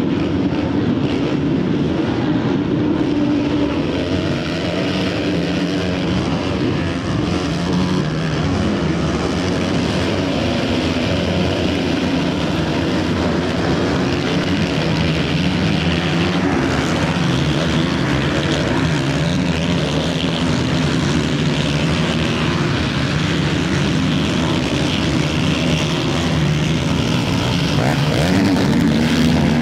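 Several 450-class motocross bikes racing on a dirt track, engines revving up and down as the riders work the throttle through the corners and jumps.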